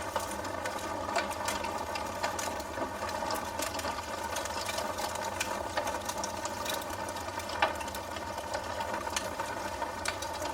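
Wood fire burning in a fireplace, crackling steadily with many small pops and one sharper pop about seven and a half seconds in, over the even hiss of the flames.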